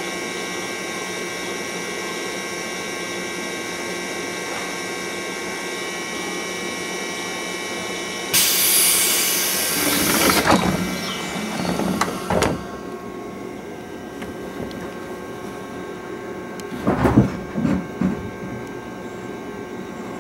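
Electric commuter train standing at the platform with its doors open: a steady hum with several fixed tones from its onboard equipment. About eight seconds in comes a sudden loud hiss of compressed air lasting about two seconds, then a few low thumps as the doors close for departure. A short cluster of louder knocks comes near the end.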